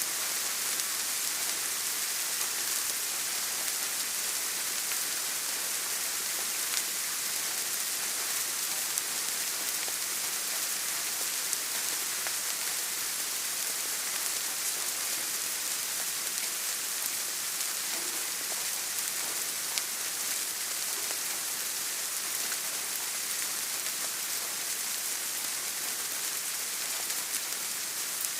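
Steady rain hiss with scattered light drop ticks.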